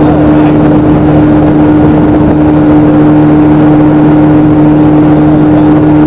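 Motorboat engine running steadily, a constant hum that holds one pitch throughout, under loud rushing noise from water and wind.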